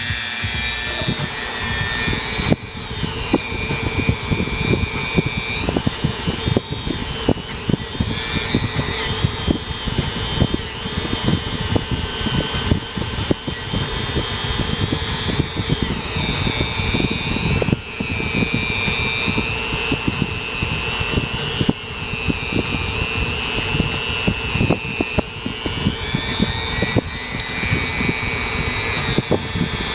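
Dremel rotary tool with a wire wheel scrubbing carbon deposits off an engine's combustion chambers and valves. It makes a steady high whine that drops in pitch and comes back up several times, over a continuous gritty scratching.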